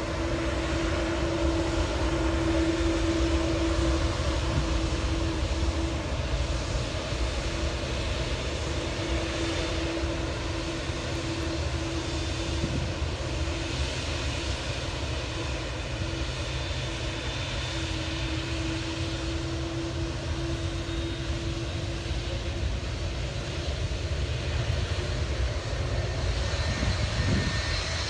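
Airliner engines running, a steady low rumble with a held humming tone that fades in and out.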